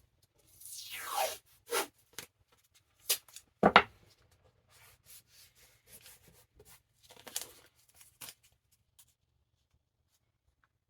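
Tape pulled off the roll with a short tearing rip about a second in, then several sharp knocks, the loudest near four seconds in, and light rubbing and handling as the tape is pressed down on the book.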